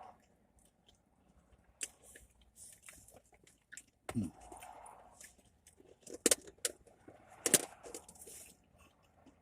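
A person chewing and eating food close to the microphone, with scattered sharp clicks and light rustles of handling the food.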